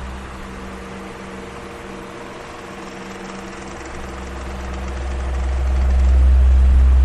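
Electric fan running, a steady motor hum under a low rush of moving air. The low rush dies down early on and swells back up over the last few seconds.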